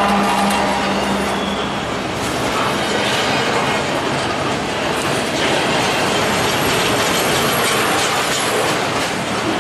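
Double-stack intermodal freight cars rolling past on the rails with a steady rumble and clatter of wheels. The hum of the trailing diesel locomotive dies away about a second and a half in.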